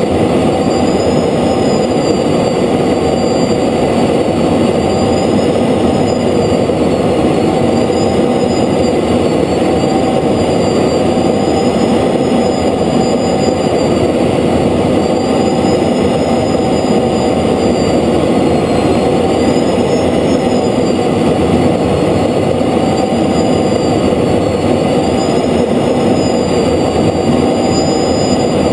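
Steady, loud roar of engine and rushing air inside an F-16 fighter jet's cockpit, with a faint high whine that wavers slowly up and down.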